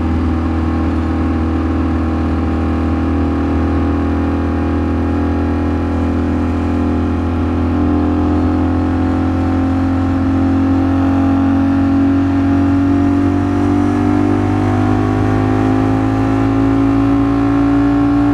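Ducati Streetfighter V4 S's V4 engine running at a steady cruise, its pitch rising slowly through the second half as the bike gathers speed.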